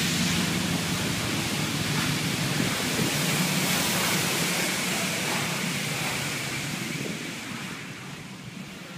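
Automatic car wash running: a steady, loud rushing noise that drops off about eight seconds in.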